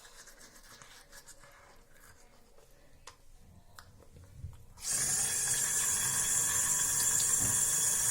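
A tap turned on about five seconds in, with water running steadily into the sink. Before that only a few faint ticks.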